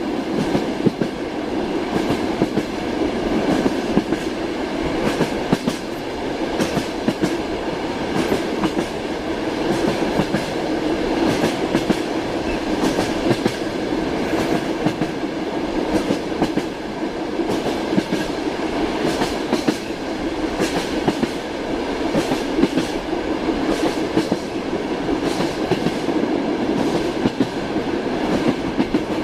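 Train wheels clattering over rail joints, heard from inside a passenger compartment: repeated clicks over a steady rolling rumble.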